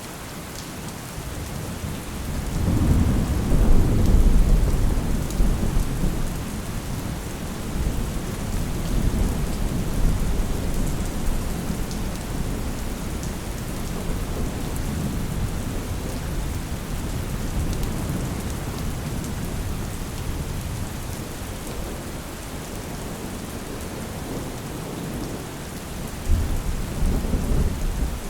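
Steady rain with rolling thunder. A deep rumble swells a couple of seconds in and fades slowly over the next several seconds, and another rumble rises near the end.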